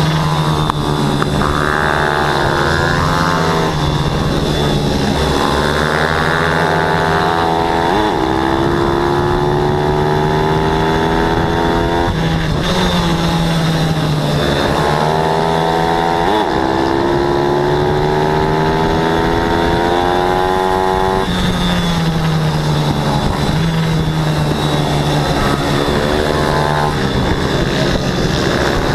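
Pit bike engines racing: the revs climb steadily for several seconds, drop sharply, then climb again, with more than one engine heard at once.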